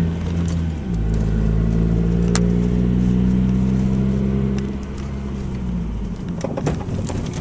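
Car engine running steadily as the car rolls slowly over bumps, its hum easing off after about five seconds. A single sharp click about two and a half seconds in and a few short knocks near the end: the clunking the car has made over bumps since a new flywheel and ceramic brakes were fitted.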